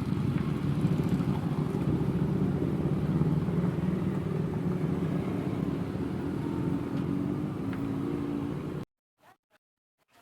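A vehicle engine running steadily on the climb. It cuts off abruptly about nine seconds in, leaving near silence with a few faint clicks.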